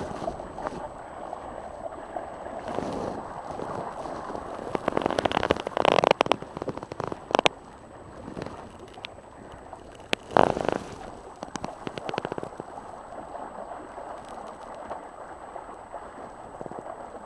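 Water sloshing and gurgling against a small sailing boat's hull, with louder splashes about five to six seconds in and again about ten seconds in, and wind rumbling on the microphone.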